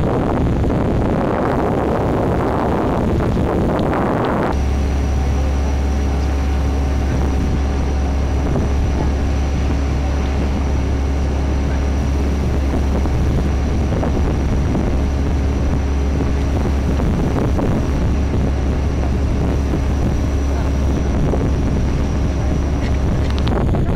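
Boat engine running steadily: a low drone with a few fixed tones and a thin high whine above it. It sets in abruptly after a few seconds of rough noise and cuts off just before the end.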